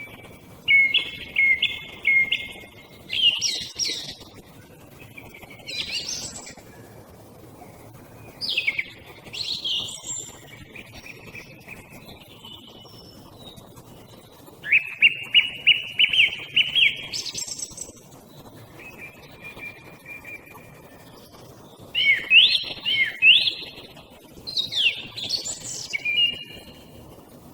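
Song thrush singing: short phrases, each made of a note repeated several times, such as a rapid run of about six notes a second near the middle, with pauses of a second or two between phrases.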